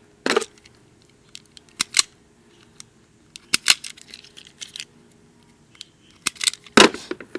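Irregular sharp clicks and snips of small hand tools and parts being handled while electrical wire is worked on, with the loudest snap near the end.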